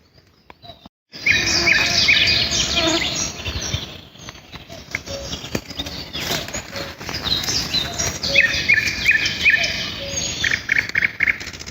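Several forest songbirds singing, beginning about a second in: bursts of quick, repeated high chirping notes, with a rapid run of repeated notes again near the end.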